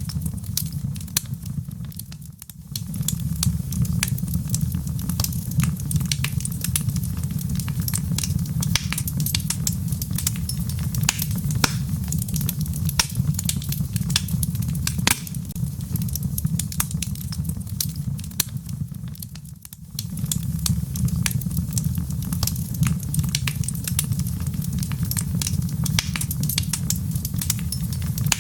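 Wood fire burning in a fireplace: dense, irregular crackling over a steady low rumble of the flames, dipping briefly twice.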